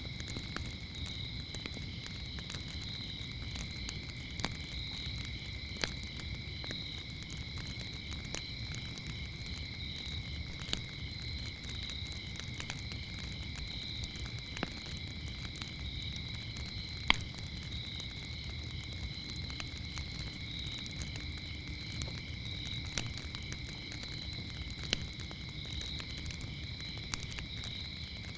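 Crickets chirping in a steady, unbroken chorus over a campfire's low rumble, with scattered sharp crackles and pops from the burning wood, the loudest pop about seventeen seconds in.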